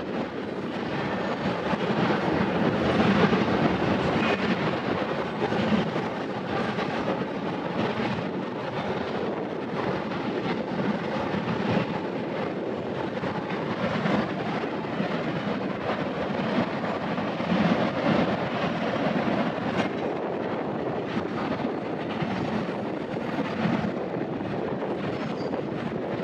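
Double-stack intermodal freight train rolling past at steady speed: a continuous rumble of the container cars on the rails, with faint repeated clicks of the wheels.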